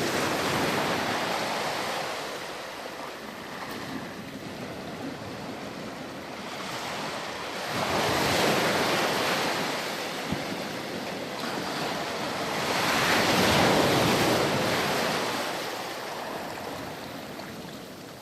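Ocean surf: waves breaking and washing up the shore, then drawing back. The sound swells and fades in slow surges, loudest at the start, about eight seconds in and about thirteen seconds in.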